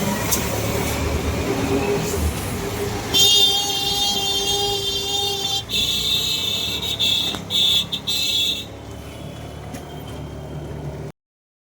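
Road traffic noise with a vehicle horn sounding: one long blast about three seconds in, then several short honks. Quieter traffic noise follows, and the sound cuts off suddenly near the end.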